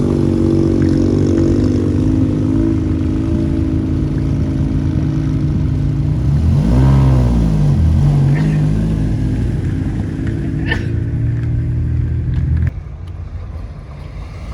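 Car engine running at a fast idle, blipped once about halfway through so its pitch rises and falls back. Near the end the sound drops abruptly.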